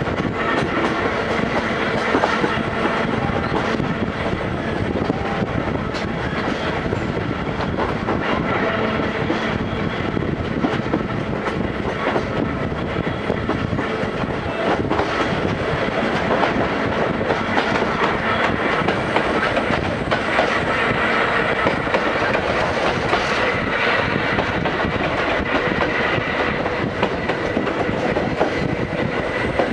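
Vintage passenger coach running behind a C56 steam locomotive, heard from inside: steel wheels clacking over rail joints under a steady rumble and rattle.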